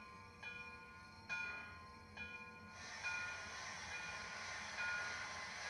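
Model steam locomotive's onboard sound system ringing its bell, a stroke about once a second. About halfway in, a steady hiss joins it.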